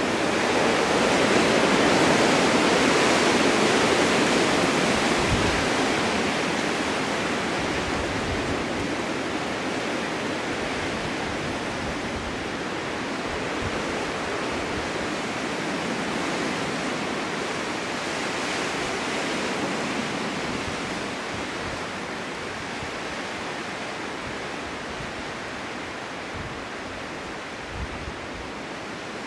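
Strong winter wind blowing in gusts, an even rushing that swells in the first few seconds and slowly eases off, with a few faint low buffets.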